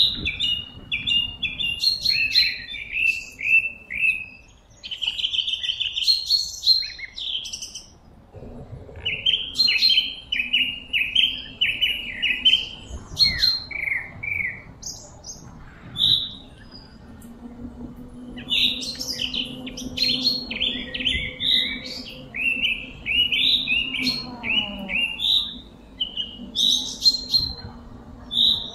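Small songbirds chirping in quick repeated series of short notes, nearly without pause, over a faint steady low hum.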